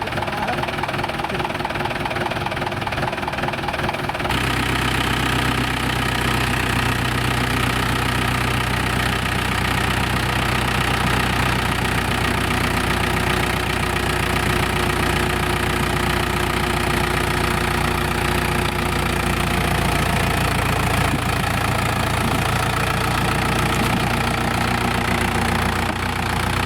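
Tractor diesel engine running steadily, changing abruptly about four seconds in to a heavier, lower engine note.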